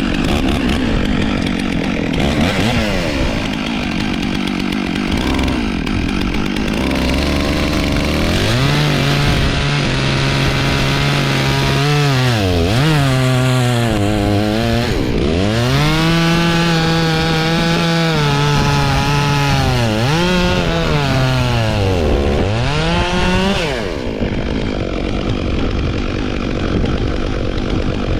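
Chainsaw bucking a large ash trunk, run at full throttle. Its pitch dips several times as the engine bogs under load in the cut, then picks back up.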